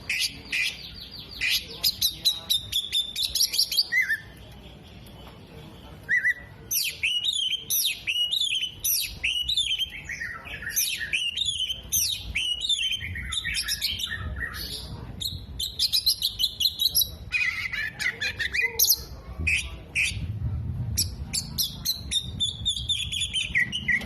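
Oriental magpie-robin (kacer) singing loudly in fast, varied phrases of whistles and chirps, with a short pause about four seconds in. The song is the bird's mimicry-laden repertoire, including imitations of sunbird, bearded bulbul and lovebird calls.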